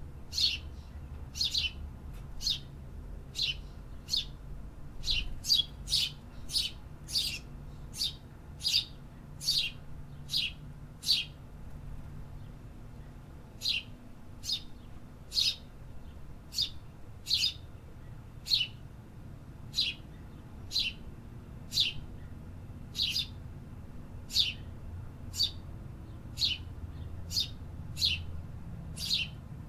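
A bird repeating short, sharp chirps, each dropping quickly in pitch, about one or two a second with a brief pause near the middle, over a low steady background rumble.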